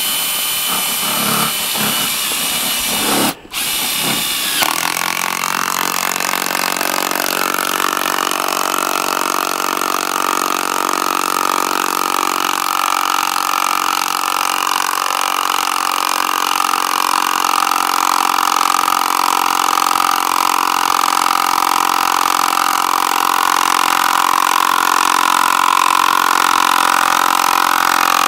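Electric power-tool motor running at steady speed without a break. It follows shorter bursts of tool noise that stop abruptly about three seconds in.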